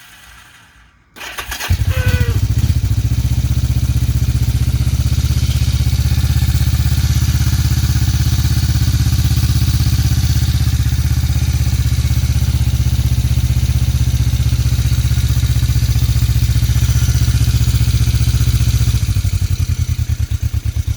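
1981 Yamaha XS400 Special's air-cooled parallel-twin engine catching on a cold start with the choke fully out, about a second in, then running at a steady fast choke idle. Near the end the idle drops lower and runs less evenly as the choke is eased back to half.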